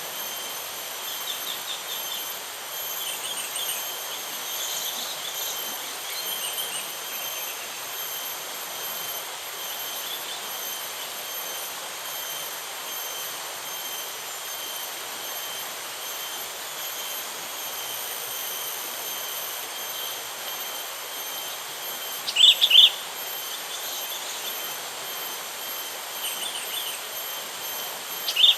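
Sooty-headed bulbul calling in short chirping phrases, with two loud bursts near the end, over a steady high-pitched insect drone and a faint hiss.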